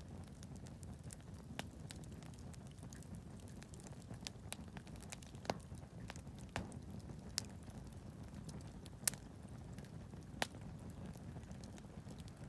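Wood campfire crackling: sharp, irregular pops every second or so, the loudest about nine seconds in, over a low steady rumble.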